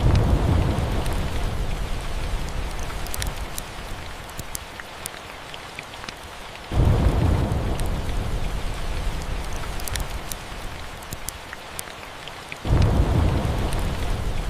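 Steady rain with three rolls of thunder, one right at the start, one about seven seconds in and one near the end, each breaking in suddenly as a low rumble and fading over several seconds. Scattered sharp ticks sound over the rain.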